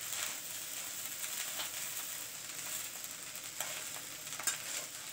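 Boiled rice and masala sizzling steadily as they stir-fry in a kadai. A spatula scrapes through the rice and knocks against the pan now and then as it is stirred.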